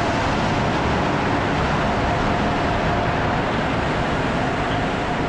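Car wash equipment running, a steady rushing noise with a faint whine, heard from inside the car.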